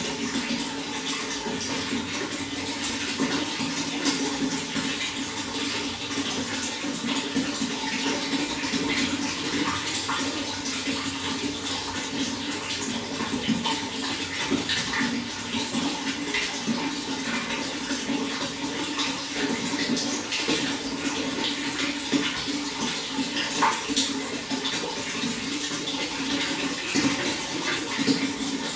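Running water flowing steadily, a continuous rush with many small splashes and drips over it.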